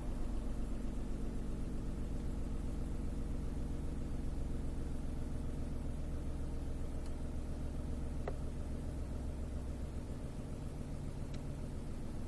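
Car engine running steadily at low revs, a low even rumble, with a couple of faint ticks.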